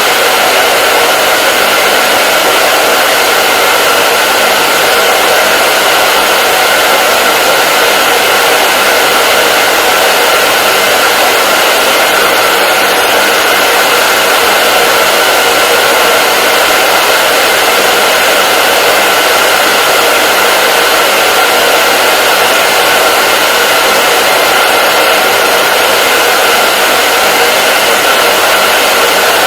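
Hair dryer running steadily: a loud, even rush of air with a steady whine from its fan motor.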